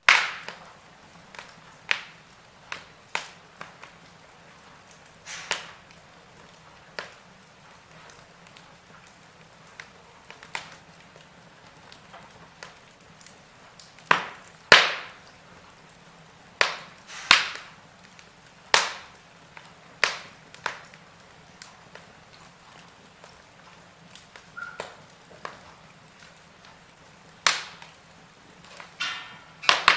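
Wood fire in a fireplace crackling: sharp, irregular pops and snaps every second or two, some in quick pairs, over a faint steady hiss.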